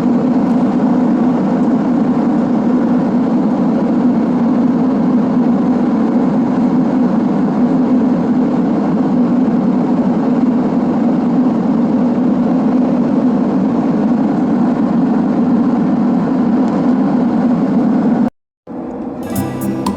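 Steady drone of a Boeing 767-300ER's passenger cabin with the jet engines running, a constant rushing noise with a strong low hum. It cuts off abruptly about 18 seconds in, and guitar music starts.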